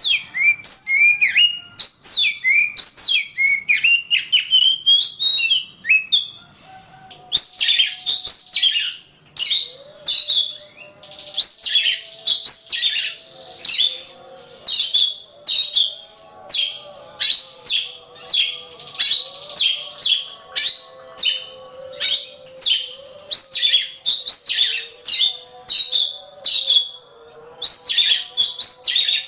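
Oriental magpie-robin (kacer) singing: a fast run of high, sliding whistled notes, then after a short pause a long string of short, high, downward-slurred notes repeated about once or twice a second.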